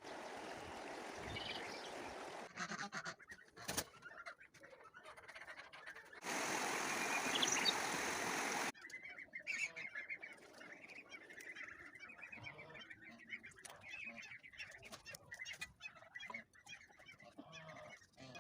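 Farmyard poultry calling, many short calls one after another. Near the middle a loud, steady rush of noise runs for about two and a half seconds and then cuts off suddenly.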